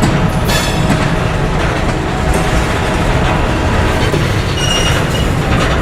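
A train rolling past on the rails: a loud, steady rumble of wheels and cars, with a brief high wheel squeal about five seconds in.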